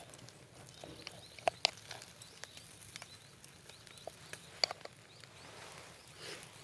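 A few light clicks and clinks of chopsticks against bowls and cookware during a meal. The sharpest come about a second and a half in and again near the middle, over a quiet outdoor background.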